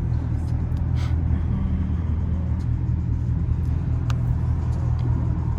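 Straight-piped, catless Dodge R/T HEMI V8 cruising with a steady low drone, heard from inside the cabin, with a few faint clicks.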